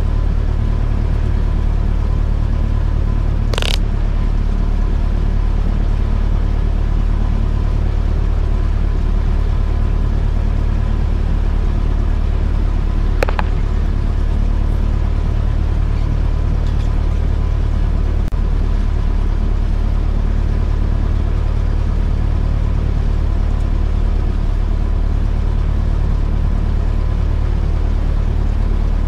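Cessna 172S's four-cylinder Lycoming engine running steadily at low power. Two brief clicks come through, about four seconds in and again about thirteen seconds in.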